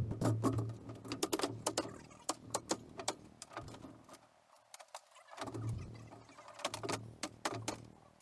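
Interior demolition: many quick knocks, clicks and clattering of wood and metal pieces being pried loose and handled, over a low hum that drops out twice.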